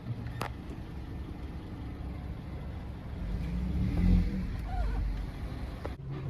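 Car running at low speed, heard from inside the cabin: a low rumble that swells for a couple of seconds in the middle, with a click just after the start and another near the end.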